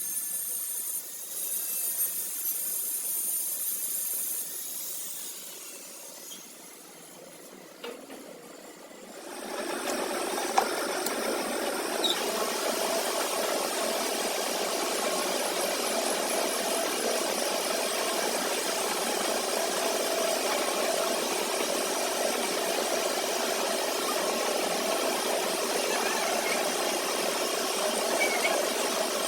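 A machine starts up about nine seconds in and then runs steadily with a rattle.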